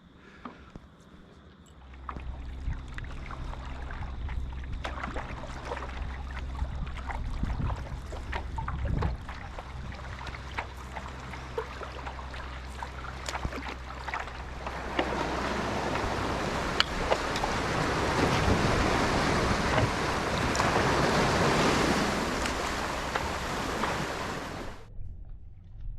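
Strong wind buffeting the microphone over waves splashing around a stand-up paddleboard, with many small water slaps. About halfway through the wind and water noise grows much louder, then cuts off suddenly near the end.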